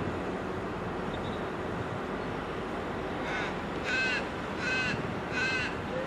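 A bird calling four times, one short call about every 0.7 seconds, beginning about halfway through, over steady background noise.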